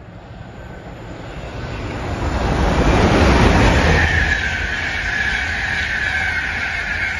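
LNER high-speed passenger train running through the station at speed: wheel and track noise builds quickly to a loud peak about three seconds in as the train reaches the camera, then carries on as a steady rush from the passing coaches with a high whine over it.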